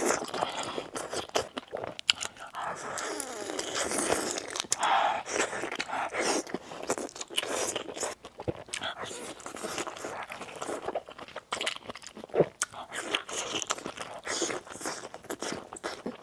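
Close-miked biting and chewing of crispy fried chicken: a dense, irregular crackle of crunching.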